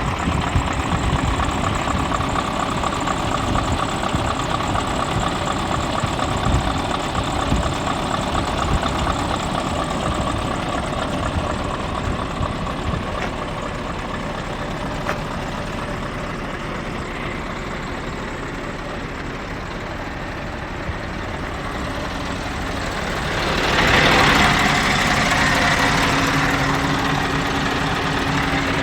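Scania R580 truck's V8 diesel engine idling steadily. About three-quarters of the way through, a louder rushing noise swells in over the engine and holds.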